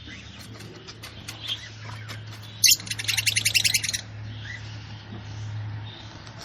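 A bird chirping: one sharp high call about two and a half seconds in, followed by a rapid high trill of about ten notes a second lasting just over a second, over a steady low hum.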